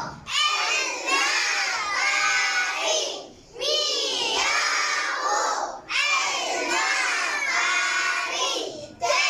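A class of young children reading aloud in Arabic in unison, loud chanted phrases of a few seconds each with short breaks between them, as they read the lesson syllable by syllable.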